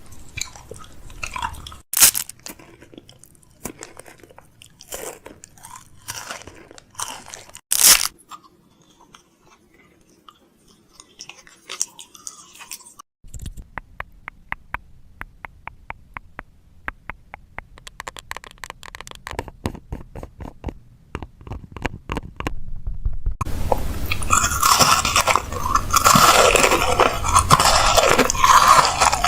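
Food containers, lids and packaging being handled while restocking a fridge. Scattered clicks and knocks come first, with two sharp loud knocks, then a run of even ticking, then a dense, loud crunching noise near the end.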